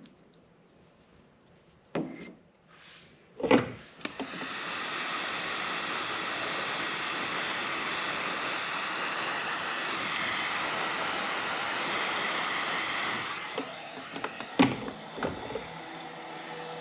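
A few knocks and clicks of handling, the loudest about three and a half seconds in, then a heat gun blowing steadily for about ten seconds as it shrinks heat-shrink tubing over a wiring harness. The heat gun dies away, followed by a few more light knocks.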